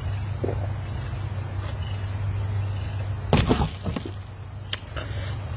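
Crickets chirping steadily under a low, constant hum, with a brief louder noise about three and a half seconds in.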